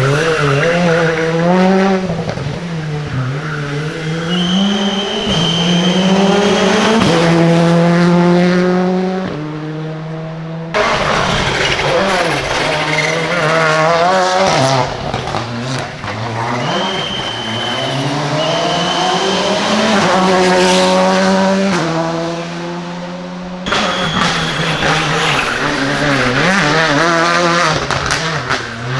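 Rally cars driven flat out on a special stage, engines revving high and climbing in pitch through quick upshifts, then dropping on lift-off and downshifts. Three separate runs are joined by abrupt cuts, about a third and four fifths of the way through.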